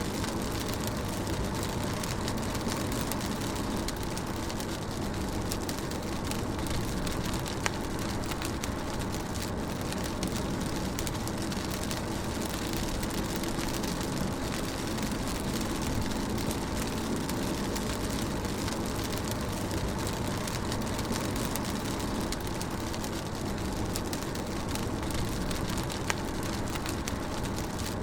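Rain falling on a moving car, heard from inside the cabin: a steady hiss of rain over the low rumble of the engine and tyres on the road, with a couple of sharper ticks of drops.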